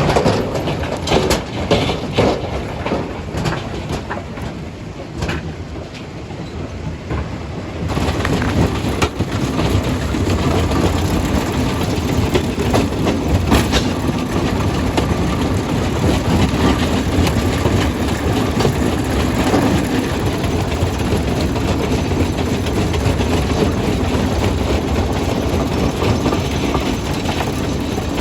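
Jaw crusher breaking stone: rock cracking and knocking over the heavy rumble of the machine. For the first few seconds the knocks come separately; about eight seconds in the sound becomes denser and louder as the crushing gets going in earnest.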